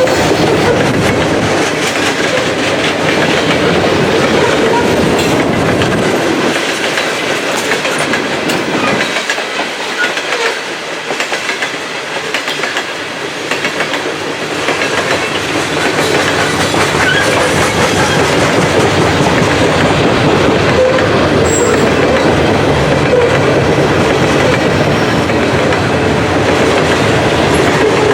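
A Norfolk Southern coal train rolling past, its steel wheels clattering over the rail joints. The low rumble thins out for a few seconds about ten seconds in, then comes back.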